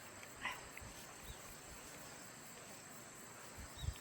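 Crickets chirping steadily in a thin, high band. There are soft low thumps about half a second in and, louder, near the end.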